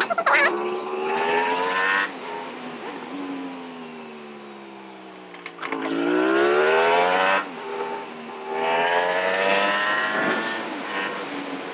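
Aprilia RS 457 motorcycle's parallel-twin engine on the move: its pitch climbs under acceleration, drops back at gear changes, sinks away as the bike slows, then climbs again.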